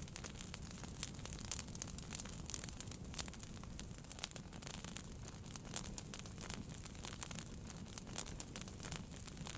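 Wood fire burning in a fireplace: frequent irregular crackles and pops over a low, steady rumble of flame.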